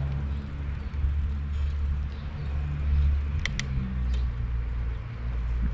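Low, steady rumble of wind buffeting the action-camera microphone on a moving bicycle, with two brief high chirps about three and a half seconds in.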